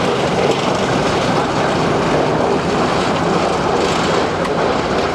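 Steady running noise of a moving train, an even rumble and rush with no distinct clicks or tones.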